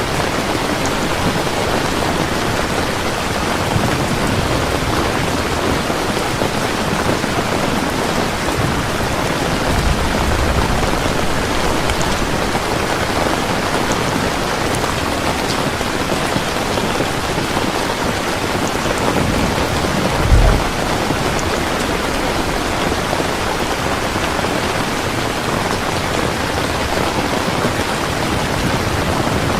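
Heavy rain falling steadily. Low rumbles of thunder swell about ten seconds in and again around twenty seconds, where a short, louder low crack stands out.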